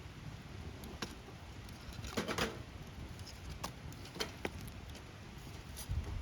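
Wood fire crackling, with scattered sharp pops and snaps, the loudest a short cluster of pops about two seconds in, over a low steady rumble.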